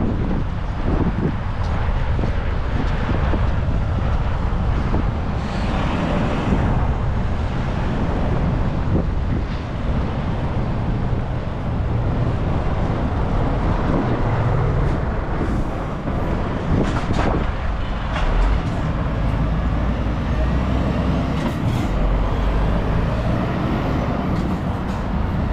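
Busy city road traffic: heavy vehicles and cars passing with a steady deep rumble of engines and tyres, with a few brief sharper noises among it.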